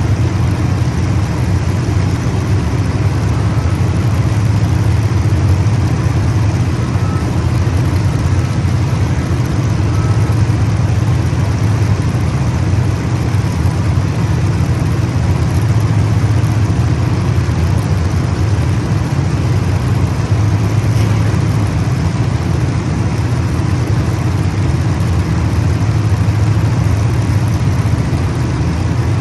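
Race car engines running in a loud, steady, continuous drone with no breaks.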